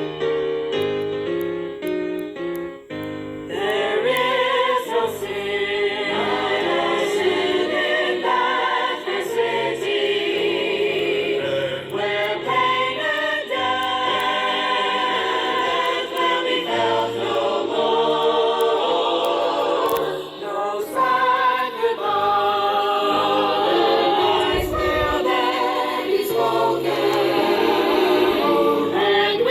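A short piano introduction in block chords, then a group of voices comes in about three seconds in, singing a gospel song together with the piano accompanying.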